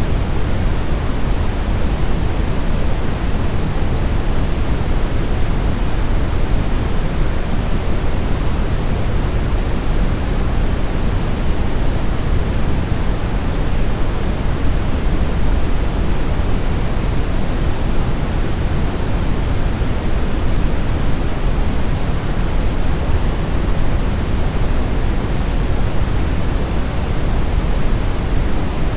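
Steady brown noise: a deep, even rushing hiss, strongest in the bass and falling off toward the treble, with no change.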